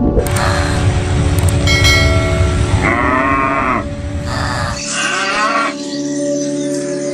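Cattle mooing: several separate calls, starting about three seconds in, over a steady held tone.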